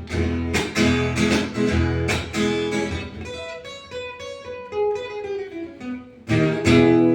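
Acoustic guitar playing the song's closing bars: strummed chords, then a short run of single picked notes, ending on a loud strummed chord left ringing.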